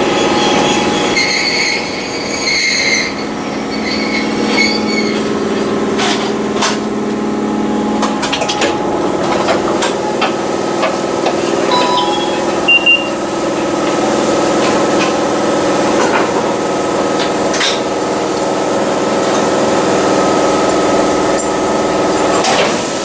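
Inside a running Eizan Railway electric train: the steady hum and whine of the drive motors, with sharp clicks from the wheels over the rail joints. In the first five seconds there is a pulsing, bell-like ringing.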